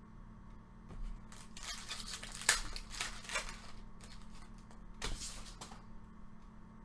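Wrapper of a trading-card pack being torn open and crinkled in two spells, with a sharp snap about two and a half seconds in.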